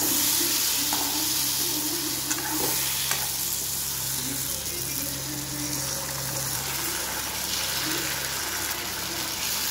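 Fish in masala gravy sizzling steadily in a wok on a gas stove, stirred with a metal spatula that clicks and scrapes against the pan a few times in the first few seconds.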